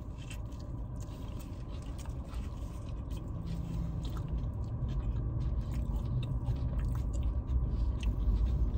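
Two people chewing soft taco meat with small wet mouth clicks and smacks, over a steady low rumble inside a car cabin that grows a little louder toward the end.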